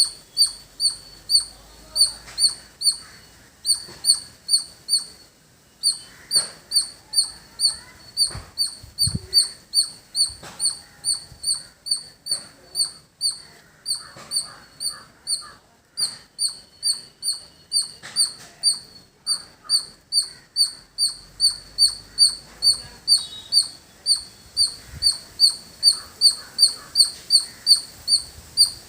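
Squirrel calling: a long run of short, sharp, high-pitched chirps, about two to three a second, with brief pauses between runs.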